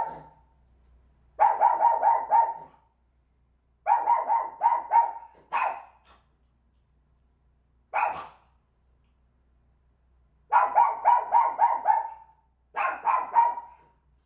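A pet dog barking in rapid volleys of several sharp barks each, four volleys with two single barks between them, separated by short silences.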